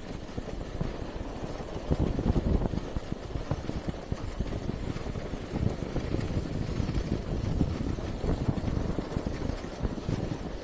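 Wind buffeting the microphone: an irregular low rumble and flutter with no steady tone.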